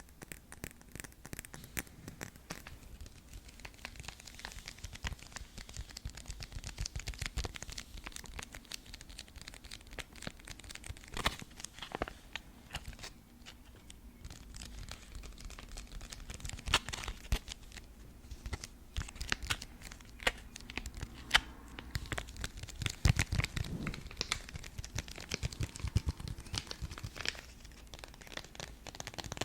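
ASMR tapping: fingers tapping rapidly and irregularly on an object held close to the microphone, with a few louder taps and some low thuds about three-quarters of the way through.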